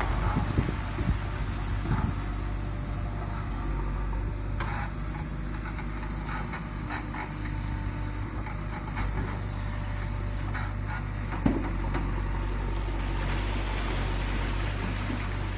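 JCB 3DX backhoe loader's diesel engine running steadily, with a few light knocks near the start and one sharp knock about eleven seconds in.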